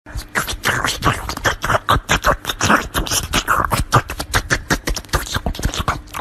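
A rapid, irregular run of sharp clicks and pops, many per second, with a voice-like, mouth-made quality.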